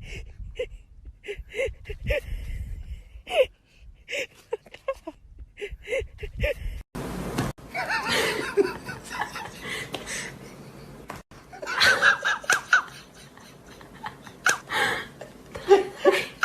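People laughing in short bursts.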